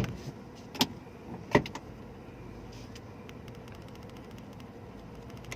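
Mitsubishi Mirage engine idling, heard from inside the cabin, with three sharp clicks in the first two seconds as the car is readied to reverse.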